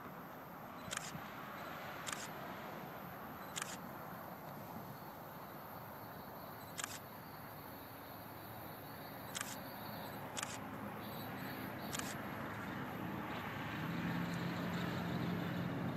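About seven single camera shutter clicks at uneven intervals over a steady outdoor hiss. In the last few seconds a low drone grows louder as a train approaches.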